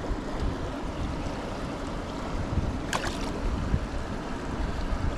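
Steady rush of river water below a waterfall, with one sharp click about three seconds in.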